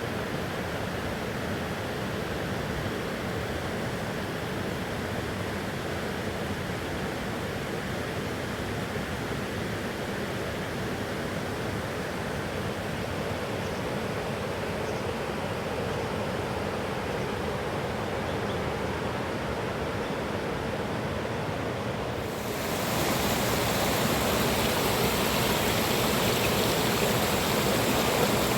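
Mountain river rushing steadily. About 22 seconds in, the sound turns abruptly louder and brighter, as if heard from much closer to the water.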